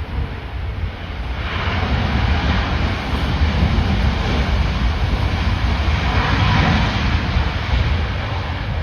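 Jet airliner on approach passing the microphone, its engine roar swelling about a second and a half in and easing off near the end, over heavy gusting storm wind buffeting the microphone.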